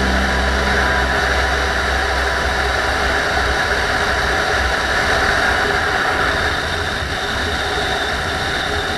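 Motorcycle engine running on the road, picked up by an action camera on the moving bike, with a steady rush of wind noise over a low engine hum.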